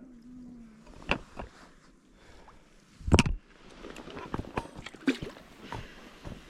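Splashing in river water: a handful of separate splashes and sloshes, the loudest about three seconds in.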